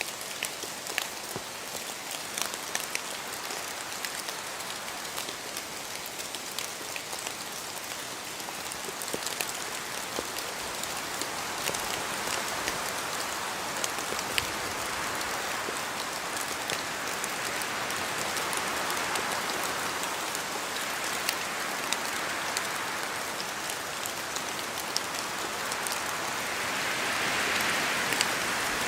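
Steady rain in a forest, with many drops striking close by, dripping from the trees, and wind gusting through spruce trees in slow swells that grow strongest near the end.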